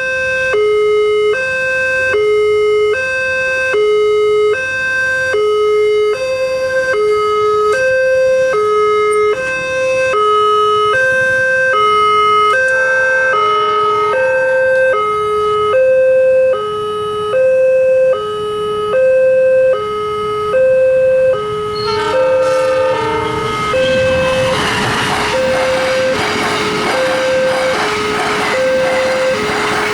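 Railway level crossing warning alarm sounding two electronic tones that alternate high and low, each about 0.8 s long. A second set of tones joins about halfway through. Near the end a train passes, its loud rushing noise building over the alarm.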